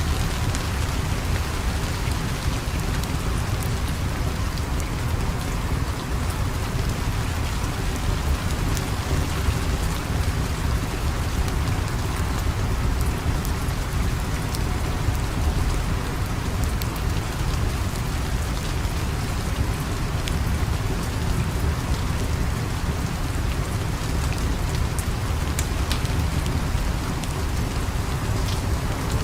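Steady heavy rain falling, an even hiss with a deep low rumble underneath and scattered sharp little clicks.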